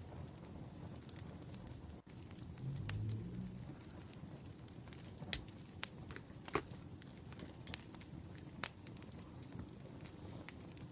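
Wood fire crackling: irregular sharp pops and snaps over a low steady rustle of burning logs. A brief low hum comes in about three seconds in.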